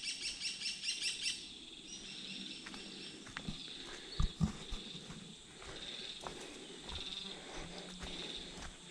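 Forest birds calling: a rapid chattering trill at first, then a high call repeated about once a second. Two soft thumps come about four seconds in.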